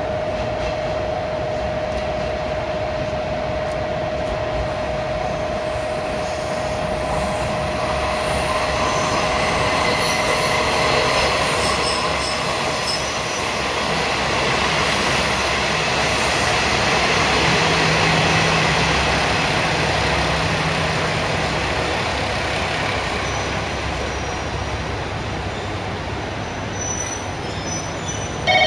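JR KiHa 47 diesel railcar rolling into the station, its wheels squealing on the rails over a steady rumble of rolling noise. The squeal is strongest in the first half.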